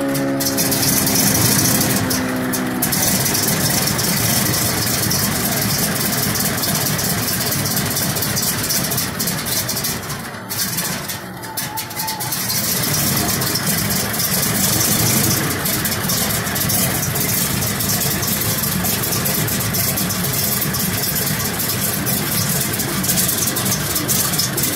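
P-47D Thunderbolt's Pratt & Whitney R-2800 eighteen-cylinder radial engine running loud and steady on its first run, easing off briefly about ten seconds in and then coming back up.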